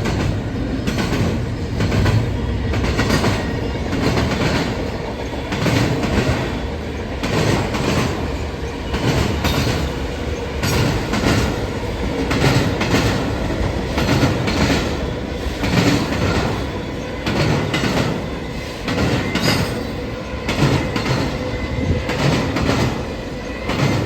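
Freight train of intermodal container cars rolling past: a continuous rumble of steel wheels on rail with repeated clicks and clacks as the wheels cross rail joints, and a faint steady squeal of the wheels.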